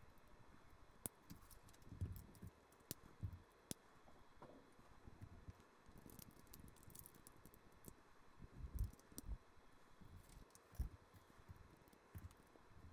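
Faint, scattered clicks and soft knocks of plastic LEGO pieces being handled and pressed together, with a few low thumps.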